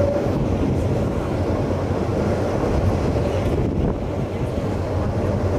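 Passenger train running steadily, heard from an open carriage window: a continuous low rumble from the running gear, with wind buffeting the microphone.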